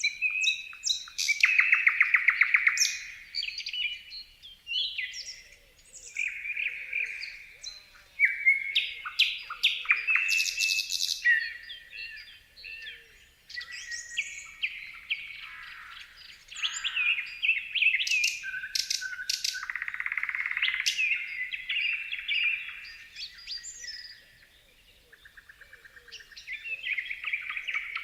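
Songbirds singing: a busy run of varied whistled phrases, fast trills and short chirps, one after another with hardly a break.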